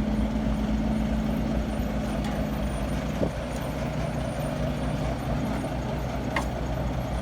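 A heavy engine running steadily at idle, its low hum shifting slightly about three seconds in.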